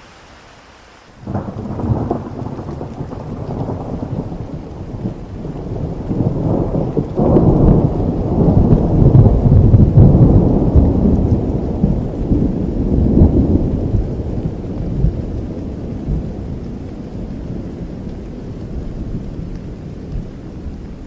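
Steady rain, then about a second in a long roll of thunder breaks in suddenly, builds for several seconds and slowly rumbles away.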